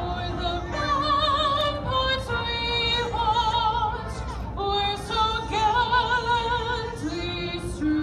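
A woman singing solo, holding long notes with wide vibrato and moving to a new pitch about every second, over a steady low rumble.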